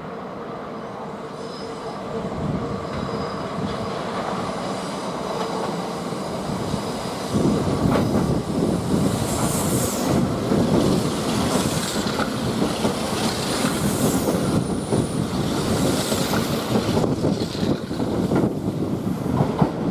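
Kintetsu limited express electric train passing slowly through the station on a curve. Its wheels clatter over the rail joints, with high wheel squeal. The sound builds, then becomes loud about seven seconds in as the cars come alongside.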